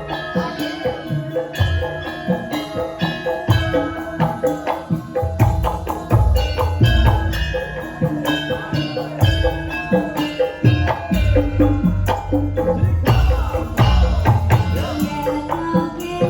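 Instrumental passage of a live Javanese campursari band with no singing: steady hand-drum and tambourine rhythm over bass and a sustained melody line.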